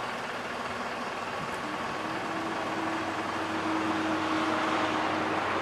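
Engine and hydraulics of a lift running steadily as it raises the platform. A steady hum with a held tone that comes in about a second and a half in, growing slowly louder.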